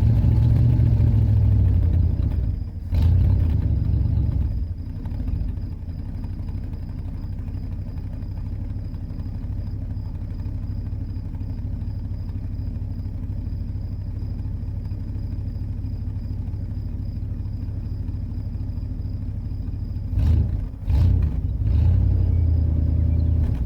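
Car engine running: loud at first, then settling to a steadier, quieter idle, with a couple of throttle blips near the end.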